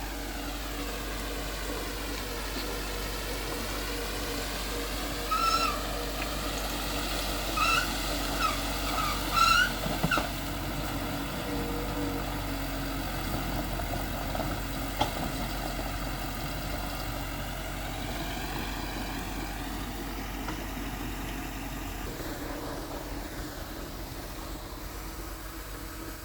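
Bulldozer diesel engine running steadily under changing load, its pitch sinking and rising in the first few seconds. A handful of short, high squeaks come about a third of the way in.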